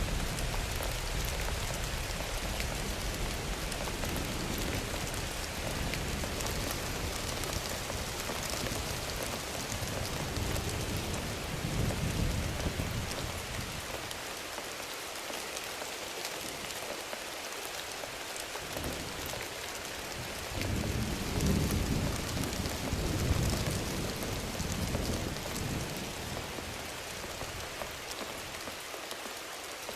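Thunderstorm sound effect: steady heavy rain hissing on a surface, with low rolling thunder rumbles that swell and fade. The rumbles come at the start, again about a third of the way in, and most strongly about three-quarters of the way through.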